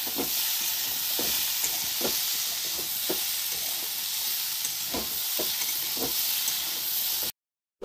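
Cauliflower singara filling sizzling in a kadai while a spatula stirs and scrapes it, with irregular scraping strokes about once a second over a steady frying hiss. The sound cuts off abruptly near the end.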